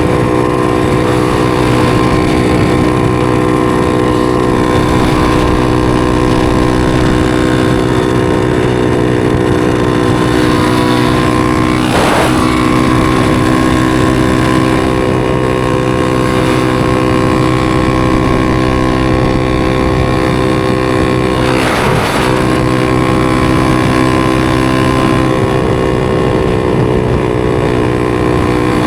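250 cc supermoto's single-cylinder engine running at a steady, held speed under way. Two brief, sharp noises cut through it, about twelve seconds in and again about ten seconds later.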